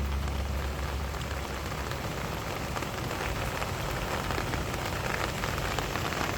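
Steady rain falling, an even patter, as the song's last low notes fade out in the first half-second.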